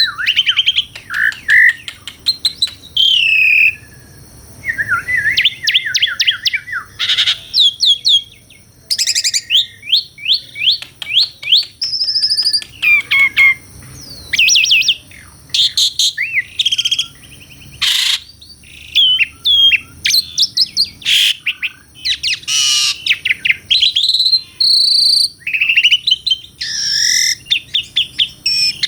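Asian pied starling (jalak suren) singing a long, varied song of clear whistles, fast rising and falling sweeps and scratchy chattering notes, delivered in quick bursts with brief pauses between them.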